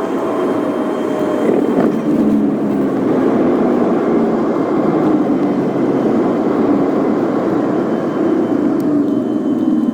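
Steady cabin noise of a Boeing 787 airliner: an even rush of engine and airflow noise with a few faint steady tones.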